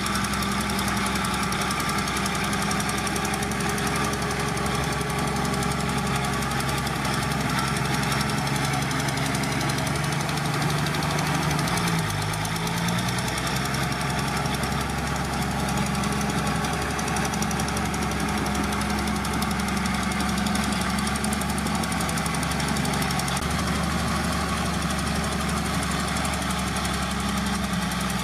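Heavy earthmoving machine's diesel engine running steadily. Its pitch dips briefly about twelve seconds in and then comes back up.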